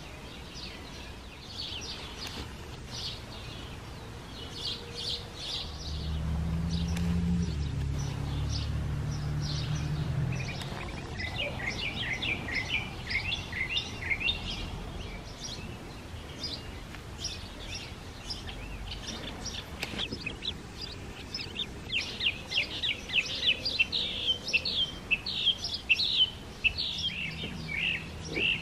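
Songbirds singing outdoors, with rapid runs of repeated chirping notes, a shorter run about halfway through and a longer, louder one near the end. About six seconds in, a low droning hum rises under the birdsong and fades after about four seconds.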